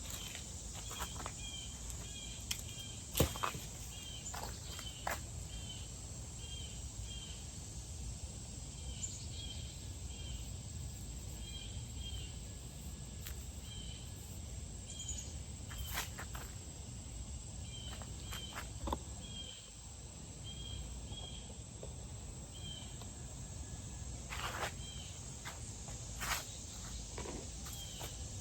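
Outdoor ambience: insects chirping in short repeated pairs over a steady high-pitched hum, with a few scattered clicks and light knocks.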